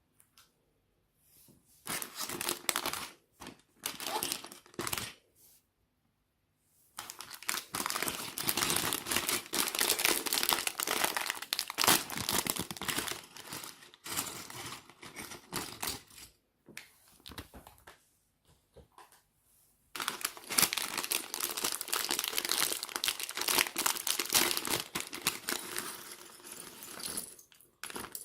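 Plastic Lego parts bags crinkling and being torn open, in three spells of rustling with short pauses between.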